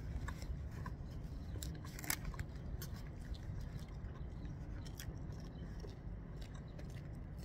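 A person chewing a mouthful of hamburger, with scattered small clicks and crinkles from its paper wrapper, over a steady low rumble.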